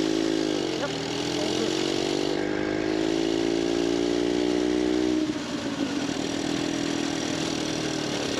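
1911 Scott motorcycle's two-stroke twin engine running after a bump start, its pitch climbing steadily as it pulls away, then dropping to a lower, steadier note about five seconds in.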